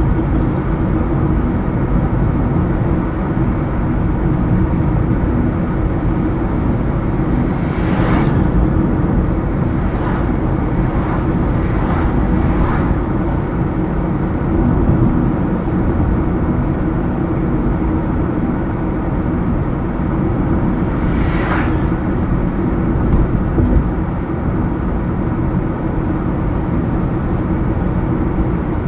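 A car driving on a highway: steady engine and tyre noise, with brief whooshes about 8 seconds and about 21 seconds in.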